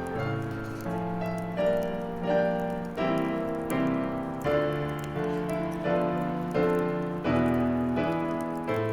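Solo piano playing a gentle, slow medley, chords struck at an even pace and left to ring.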